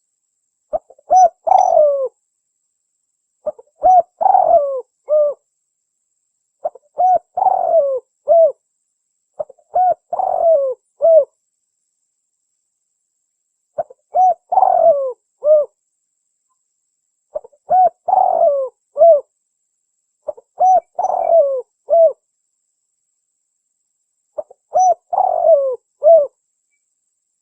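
Spotted dove (tekukur) calling: eight cooing phrases, one about every three seconds. Each phrase is a few short coos around one longer, falling coo, with silence between phrases.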